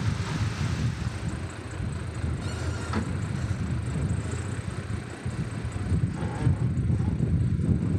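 Heavy diesel construction machinery working with a steady low engine rumble.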